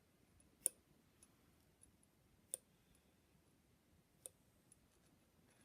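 Three sharp, light metallic clicks a second or two apart, with near silence between: small steel engine parts and tools being handled while connecting-rod bolts are oiled.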